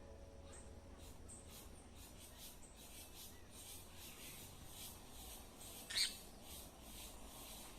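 Faint birds and insects chirping, many short high-pitched chirps throughout, with one louder short chirp about six seconds in.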